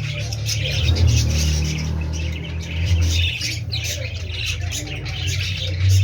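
Many canaries chirping and calling at once: a dense flurry of short, high calls over a low steady hum.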